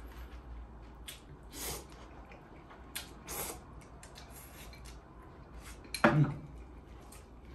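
Eating sounds at a table: light clicks and scrapes of utensils on a dish, with two short soft slurps of bibim-myeon noodles. About six seconds in comes a brief low voiced sound from the eater, the loudest moment.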